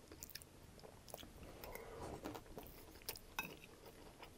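Faint close-miked chewing of a mouthful of crispy chicken fried rice: scattered soft mouth clicks and small crunches.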